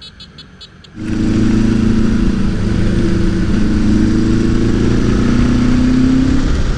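Motorcycle engine running while under way, a steady, slightly wavering drone over a rush of noise. It comes in abruptly about a second in, after a few faint quick ticks.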